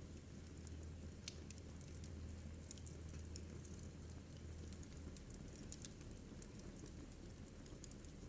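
Wood fire crackling in a fireplace: irregular small snaps and pops over a low steady hum.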